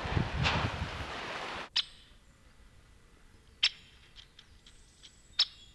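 A louder soundtrack cuts off abruptly about a second and a half in. A small bird then gives short, high chirps: three sharp ones about two seconds apart, with fainter ones between.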